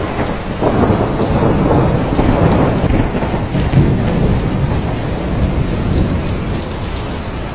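Thunderstorm: steady heavy rain with a long rumble of thunder that swells about half a second in and fades over the next few seconds.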